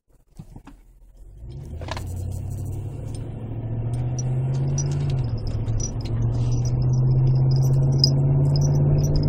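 2008 Chevy Tahoe V8 running through an aftermarket Magnaflow muffler with the stock resonator kept, a deep exhaust drone. It comes up about one and a half seconds in, rises in pitch, dips briefly about five seconds in, then climbs again and holds louder.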